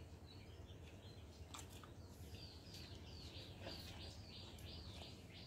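Faint bird chirping: a short high call repeated about three times a second, starting about two seconds in, over a low steady background hum with a couple of soft clicks.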